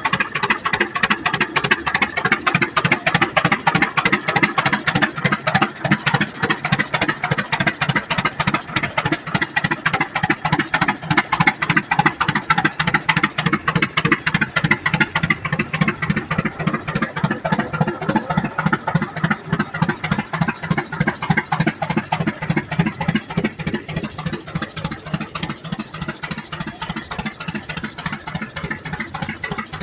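Tractor engine running with a steady, evenly spaced exhaust beat that grows somewhat quieter in the second half.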